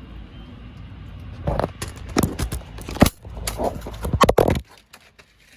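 A quick run of about eight loud knocks and scrapes, like handling of tools or parts, starting about a second and a half in, over a steady low rumble that cuts off abruptly near the end.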